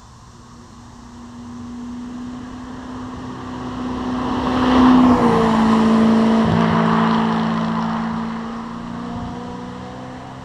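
Sports car engine under hard acceleration on a hill climb run, growing louder as it approaches, passing close about five seconds in with a drop in pitch, then fading away up the road.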